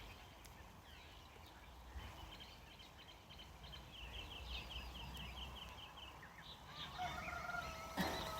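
Faint countryside ambience with birds calling: a quick run of high chirps in the middle, and a longer call held at a steady pitch near the end, over a low rumble.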